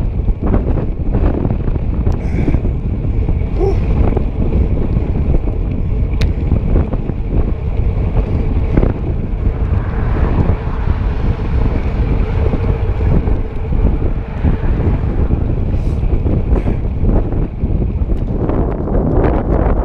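Wind buffeting the microphone, a loud, steady rumble, with a few light ticks.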